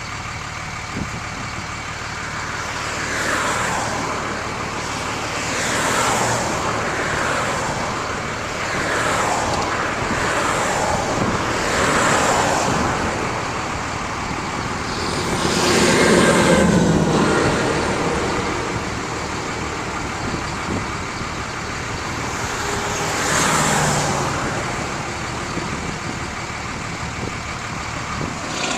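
Road traffic passing close by, one vehicle after another every few seconds, each swelling and fading away. A heavier, louder vehicle goes by about halfway through.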